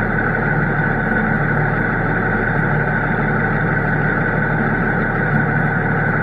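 Diesel engine of large farm harvest machinery running steadily, with a constant high whine over the low engine drone.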